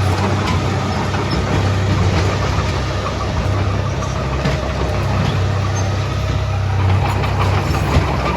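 Komatsu D31A bulldozer's diesel engine running steadily under load, with scattered clicks and knocks over the engine noise.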